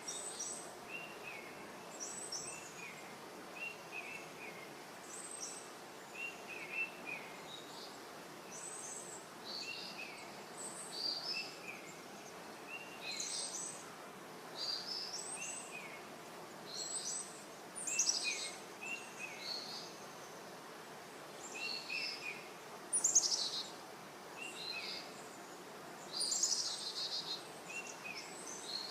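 Small birds chirping: short high calls in groups of two or three, repeating every second or two, with sharper, louder notes now and then, over a steady outdoor background hum.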